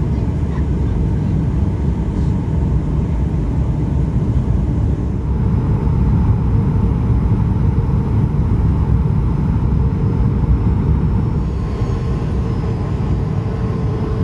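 Boeing 737 cabin noise as the airliner descends to land: a steady rumble of engines and rushing air. Thin higher engine tones come in about five seconds in, and more join near the end.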